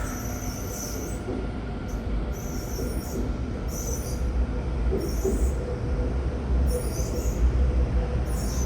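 Taoyuan Airport MRT electric train pulling out of a station: a low rumble that grows louder, a steady hum, and a high squeal that comes and goes.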